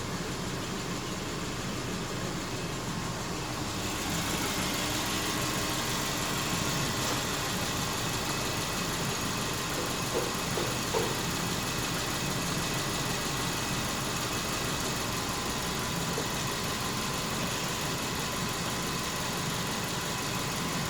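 Subaru Forester's flat-four engine idling steadily. About four seconds in, its sound turns brighter and hissier, and a few light taps come about halfway through.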